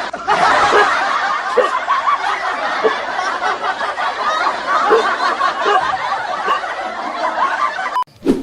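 Several people laughing and chuckling at once, a dense continuous mix of voices that cuts off abruptly near the end.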